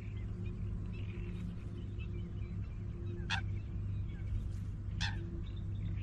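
Small birds chirping and singing with scattered short notes, and two sharp bird calls about three and five seconds in, over a steady low hum.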